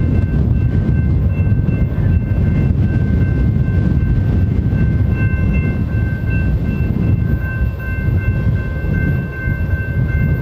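Low, steady rumble of a distant BNSF freight train approaching, led by GE C44-9W diesel locomotives. A few faint, high, steady tones come and go above it.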